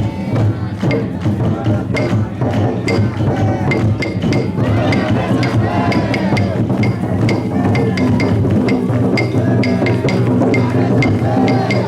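Taiko drum of a chousa drum float beaten steadily, about two strikes a second, with voices chanting over it.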